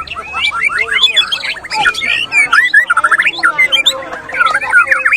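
Several caged white-rumped shamas singing at once in competition. It is a dense, loud tangle of quick whistles, trills and chirps, overlapping without a break.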